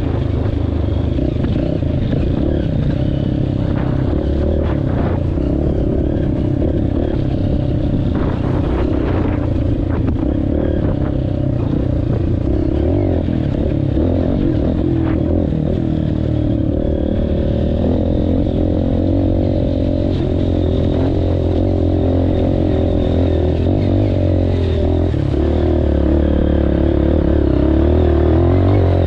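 Honda CRF230F's air-cooled single-cylinder four-stroke engine running under load as the trail bike is ridden, the revs rising and falling, with scattered clattering knocks from the bike over rough ground. It gets a little louder near the end.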